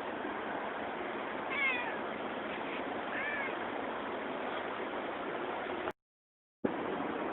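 A hungry stray cat meowing, two short calls a second and a half apart, over a steady background hiss. The sound cuts out completely for about half a second near the end.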